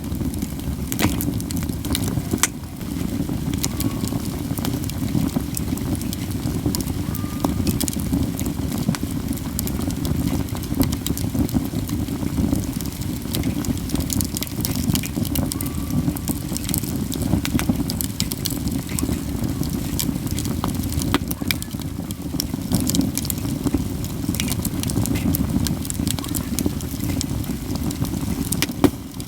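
Katsura wood burning in a campfire, crackling all the while, with occasional sharp, loud pops (one just before the end), over a steady low rumble.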